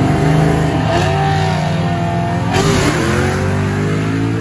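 Car engines revving hard under acceleration, slowly fading.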